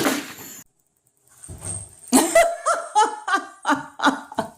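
A person laughing hard in quick repeated bursts, starting about two seconds in after a short burst of noise and a moment of silence.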